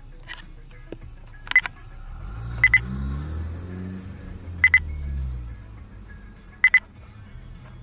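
A high electronic double beep sounds four times, one to two seconds apart, over a vehicle engine that swells, shifts in pitch and fades in the middle.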